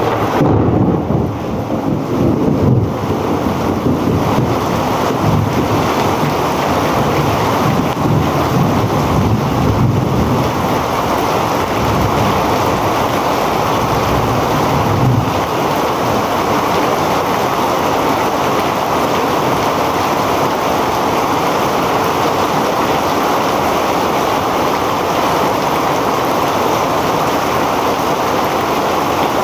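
Heavy rain pouring down steadily, with low rumbling that comes and goes during the first half.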